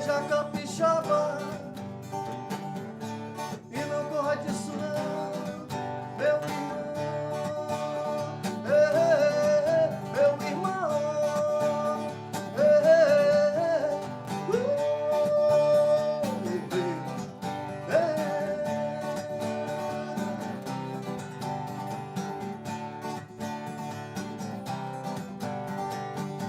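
Acoustic guitar strumming chords in a blues-rock song, with a melodic line gliding over it from about eight seconds in to about seventeen seconds.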